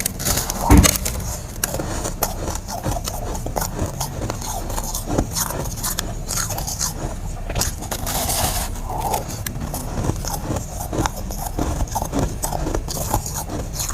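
Freezer frost being scraped and bitten close to the microphone: a dense, irregular crackling crunch with a louder knock about a second in.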